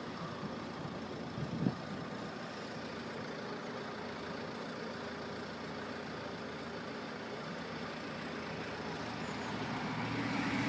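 Steady diesel engine rumble of an approaching InterCity 125 train led by a Class 43 power car, growing louder over the last few seconds as it nears the level crossing.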